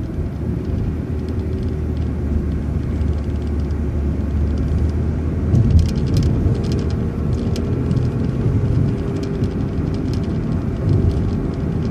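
City transit bus's engine running, heard from inside the passenger cabin as a steady low hum. About halfway through, the engine note changes and grows a little louder.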